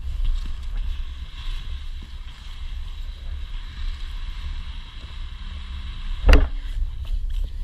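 Inline skate wheels rolling on wet pavement, a steady hiss over a low rumble, with wind buffeting the camera's microphone; a single sharp click about six seconds in.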